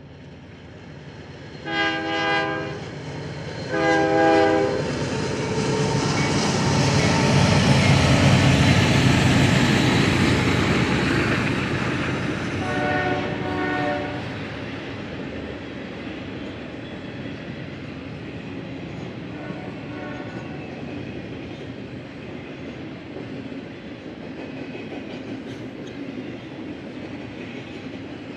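Union Pacific diesel freight locomotives sound their horn in two short blasts about two seconds apart, then run past, the rumble building to its loudest and fading, with a third horn blast about thirteen seconds in. After that comes the steady rumble and clatter of double-stack container cars rolling by.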